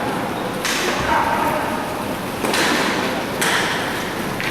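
Inline hockey play: three sudden knocks and thuds, from sticks, puck and boards, over a steady noisy din of the rink.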